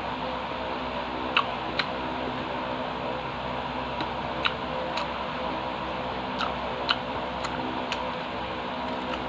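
Steady mechanical hum of a running appliance, with about ten faint, sharp clicks scattered through it.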